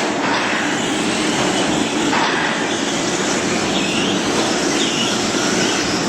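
A pack of radio-controlled off-road racing trucks running together, their electric motors whining in short rising and falling glides over a steady wash of tyre and chassis noise.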